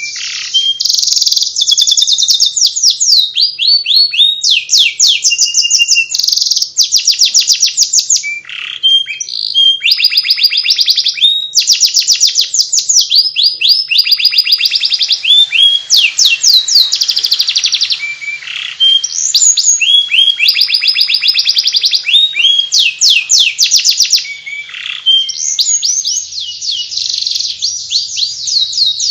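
Domestic canary singing in the fast, chattering 'ngeriwik' style: rapid runs of repeated high chirps and quick falling notes, broken by brief pauses a few times.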